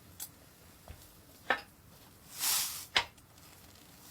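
A few short, sharp clicks and knocks over a quiet background, with a brief soft rush of noise a little past halfway.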